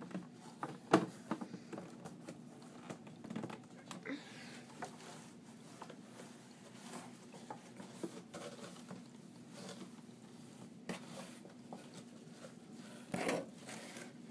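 Scattered light taps, clicks and scratchy rustling, with a sharp click about a second in and another cluster near the end, over a faint steady hum.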